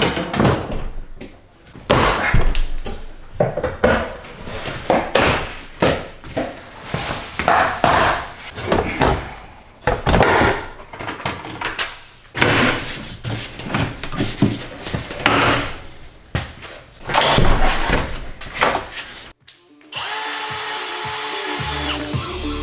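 Handheld power drill running in short, irregular bursts, mixed with knocks and clunks of parts being handled while a truck door is taken apart. Music comes in near the end.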